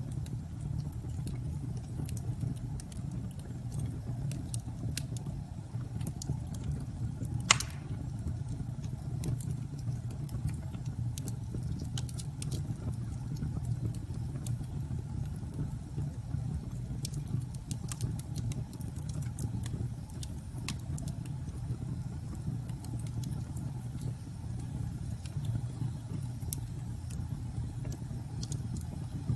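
Wood fire crackling with scattered pops and one louder sharp crack about seven seconds in, over a steady low rumble of storm wind.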